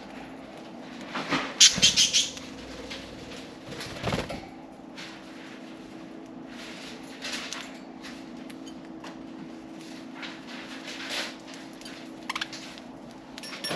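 Pet budgies moving and calling: scattered short scratchy bursts, loudest about two seconds in, and a brief chirp near the end, over a steady low hum.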